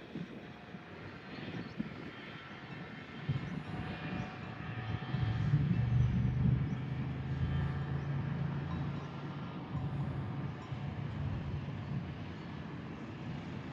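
Motor vehicle engine running, growing louder about halfway through and then easing off, over steady background noise.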